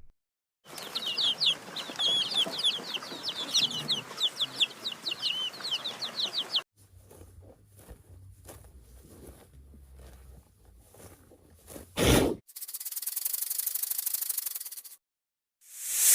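Many birds chirping rapidly for about six seconds, then scratching and rubbing noises, a sudden thump, and a rapid buzz.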